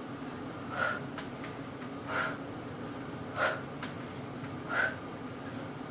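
A woman's forceful exhalations, one short puff about every 1.3 seconds, four in all, in time with the repetitions of a bodyweight exercise. A steady low hum runs underneath.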